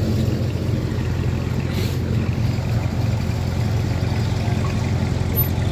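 Car engine idling in a steady low rumble as a custom car creeps slowly past.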